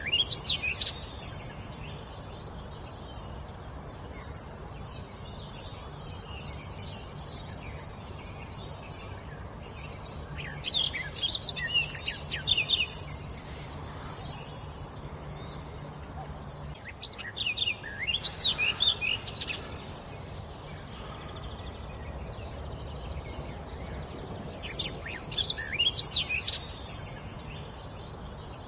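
A songbird singing in four short phrases of rapid, high, sliding notes, each about two seconds long and spaced several seconds apart, over a steady low background rumble.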